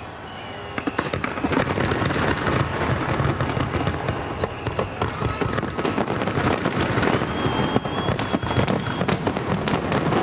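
Fireworks display: a dense, rapid barrage of bangs and crackles that builds up sharply about half a second in and keeps going.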